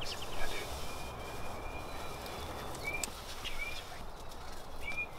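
Outdoor field ambience with a small bird giving short, high chirps about once a second, over a low rumble of wind.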